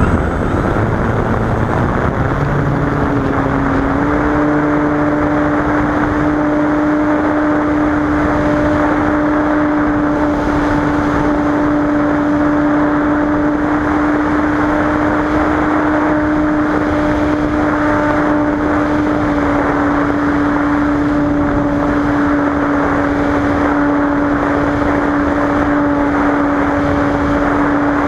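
Cessna 185's six-cylinder piston engine and propeller running in a loud, steady drone. The pitch steps up slightly about three to four seconds in, then holds even.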